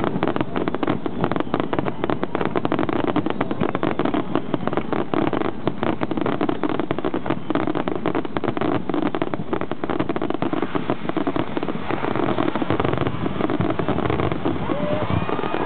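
A dense barrage of fireworks: rapid bangs and crackles run together into a continuous din, thinning somewhat over the last few seconds.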